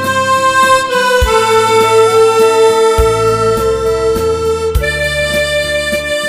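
Harmonica playing a slow melody with long held notes over a lower accompaniment.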